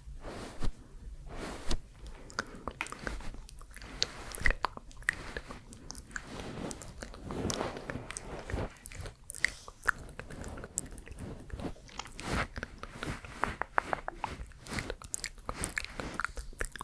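Close-miked ASMR mouth sounds: quick wet clicks and smacks, many in a row with short pauses between runs.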